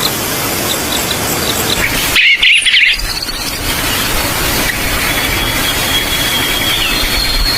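Forest birds calling over a steady rushing background. About two seconds in, a loud, short run of rapid chirping notes. From about three seconds in, a thin, high, steady trill that holds.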